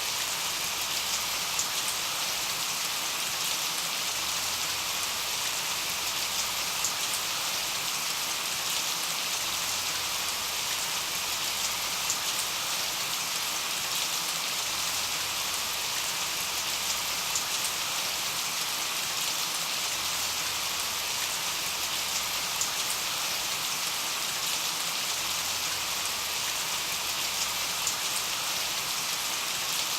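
Steady rain falling: an even hiss of rain on hard surfaces, with scattered individual drops ticking through it.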